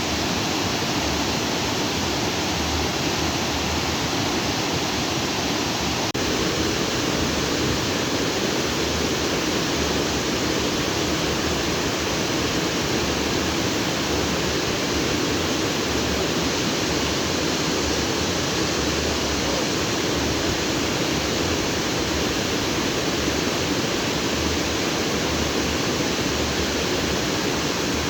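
Stream water rushing and splashing over rocks, a steady even rush with no breaks.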